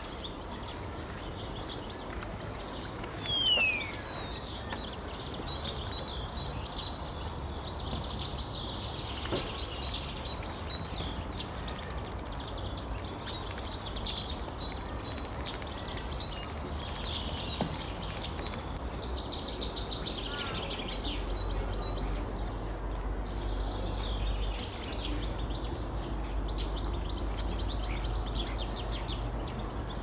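Several small songbirds chirping and calling over a steady low rumble, with one loud falling whistle a few seconds in and a fast trill about two-thirds of the way through.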